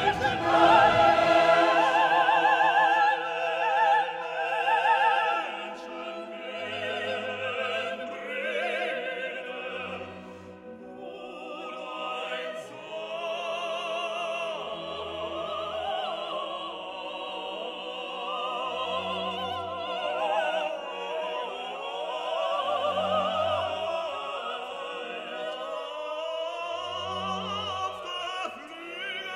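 Operatic singing with a wavering vibrato over orchestral accompaniment, with short low notes repeating every few seconds; louder in the first six seconds or so.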